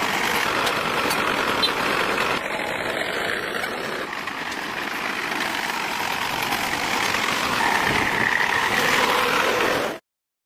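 Engine running steadily, cutting off abruptly near the end.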